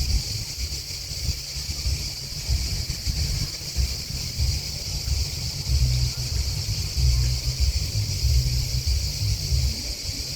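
A steady, high-pitched chorus of chirping insects, with gusty wind buffeting the microphone as a low, uneven rumble that is the loudest part.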